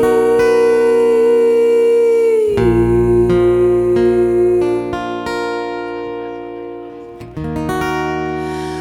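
Live band music with guitar: a long held melody note that slides down to a lower note about two and a half seconds in, over sustained chords.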